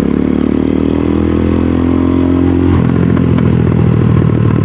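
Venom X22R (DF250RTS) 250cc single-cylinder motorcycle engine running steadily, then dropping to a choppy, pulsing idle about three seconds in as the bike slows to a stop.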